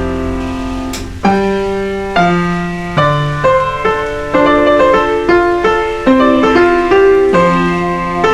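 Slow solo piano music, with single notes and chords struck every half second to a second and left to ring. A brief click about a second in.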